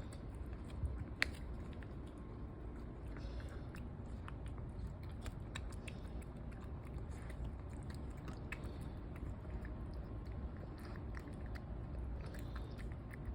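A cat chewing and eating food, with irregular small crunching clicks.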